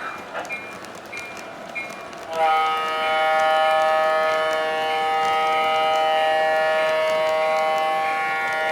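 Train horn sounding one long, steady chord of several notes, coming in loudly about two seconds in and held without a break. Before it there are fainter clicks and short repeated beeps.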